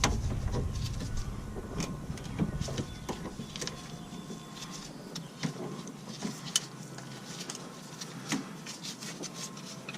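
Irregular clicks, knocks and scrapes of hand tools working metal parts of a car's rear brake caliper assembly while a stuck part is worked loose.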